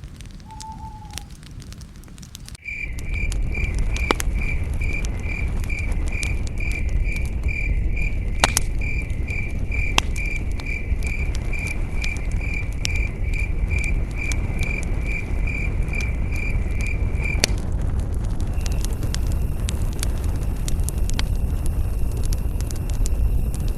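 Campfire crackling and popping over a low rumble, turning louder about two and a half seconds in. A cricket chirps steadily, about two chirps a second, for most of the stretch, then stops.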